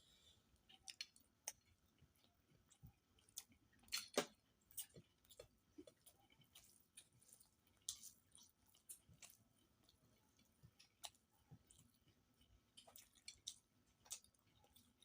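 Faint close-up eating sounds: a person chewing rice and fish curry with wet mouth clicks and smacks at an irregular pace, the loudest smack about four seconds in.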